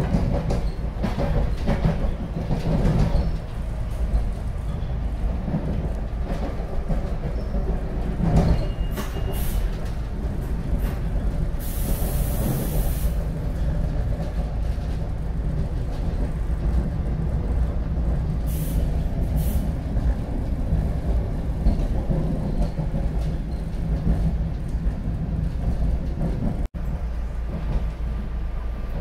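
Train running with a steady low rumble and scattered clicks, and a short burst of hiss about twelve seconds in.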